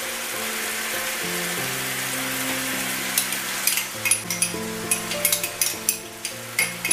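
Chopped garlic sizzling in hot oil in a wok, a steady hiss, with sharp crackling ticks joining in about three seconds in, over soft background music.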